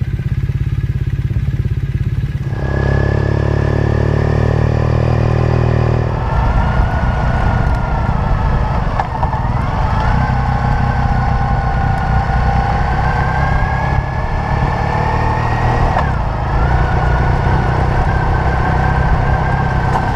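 Triumph Thruxton parallel-twin motorcycle engine running and then riding along, heard from the bike with wind and road noise. The engine note steps up a couple of seconds in, and a whining tone in the sound dips briefly twice as it rides.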